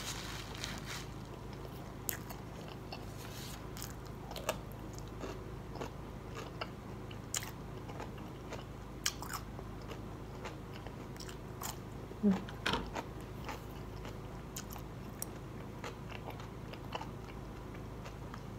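A person eating fried catfish and french fries close to the microphone: scattered crisp crunches and wet mouth clicks of biting and chewing, over a steady low hum. About twelve seconds in there is a brief hum of the voice.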